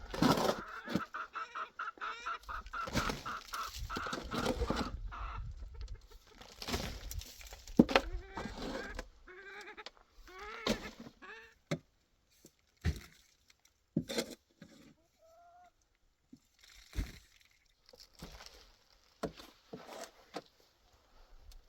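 Chickens clucking, with a rapid run of calls in the first few seconds, then scattered knocks and occasional single calls.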